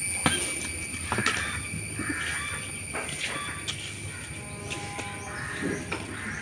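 Birds calling: short chirps and calls come at intervals, with a brief held call about two-thirds of the way through. A few light clicks or knocks fall in between.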